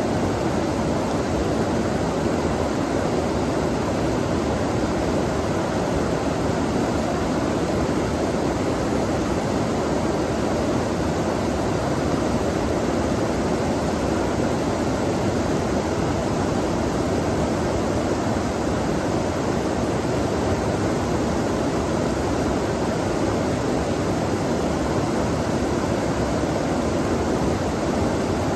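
Flowing water rushing steadily and evenly, with no separate splashes or other events standing out.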